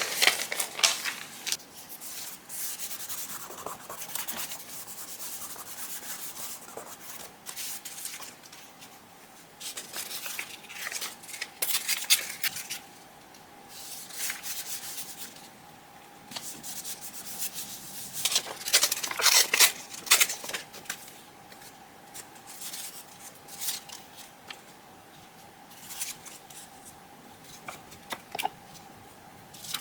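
Sheets of paper being handled and rubbed by hand: irregular rustling and rubbing strokes, loudest about twelve seconds in and again around nineteen to twenty seconds.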